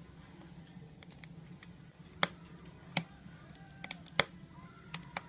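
Firewood burning in a wood stove, crackling with irregular sharp pops, the loudest few about halfway through, over a faint steady low hum.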